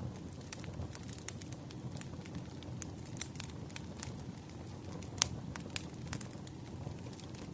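Burning firewood crackling: irregular sharp pops and snaps over a low steady rumble, one pop about five seconds in standing out as the loudest.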